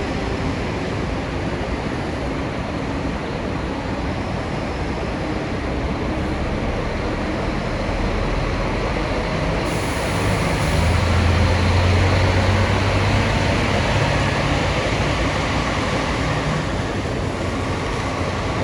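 Scania K400 double-decker coach's diesel engine running as the coach moves, its low drone swelling louder about ten seconds in and easing off a few seconds later, over steady road and traffic noise.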